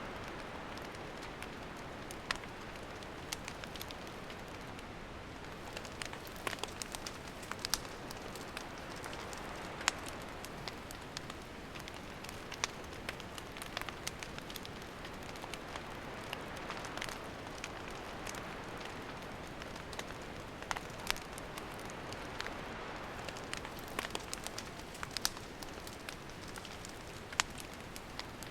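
Wood campfire burning: a steady soft hiss with irregular sharp crackles and pops from the burning firewood.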